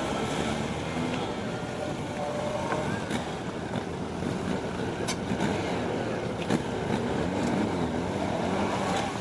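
Police motorcycle engines running at low speed, the revs rising and falling, with a few sharp clicks.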